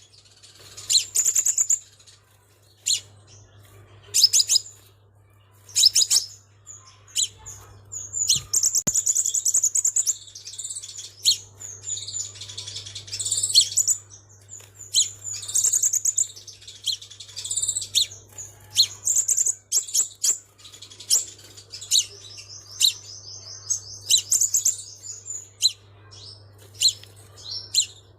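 Crimson sunbird ('xác pháo') calling and singing in a lure recording: sharp high chirps and quick rattling trills in irregular bursts, with a longer fast trill about 22 seconds in.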